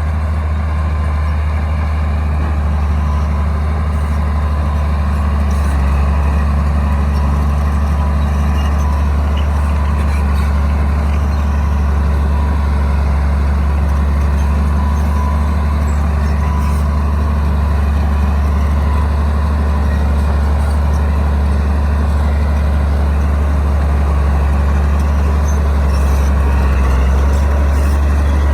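Diesel engine of a Komatsu D60-series bulldozer running steadily, with a deep continuous drone and a faint steady whine above it.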